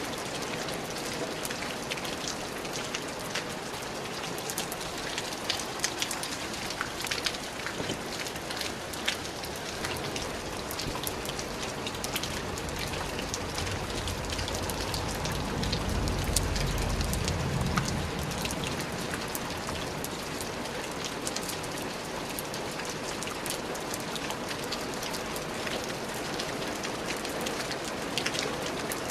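Steady rain falling on a surface, with many individual drops ticking sharply over the even hiss. About halfway through, a low rumble swells and fades over a few seconds.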